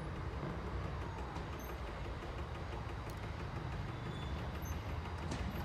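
Steady low rumble of a Lastochka electric multiple unit at the station, with a faint falling whine about a second in.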